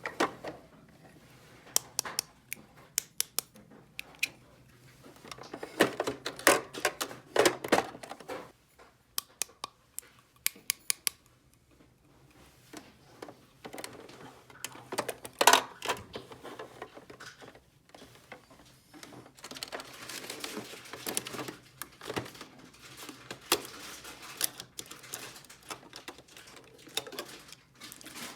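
Small hard objects being handled: irregular clicks and taps, some in quick clusters, with stretches of busier rattling and rustling.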